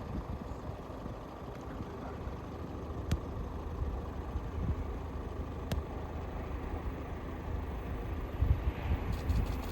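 Diesel-hauled rail tour train running past, a steady low rumble with two sharp clicks in the middle and heavier low thumps near the end.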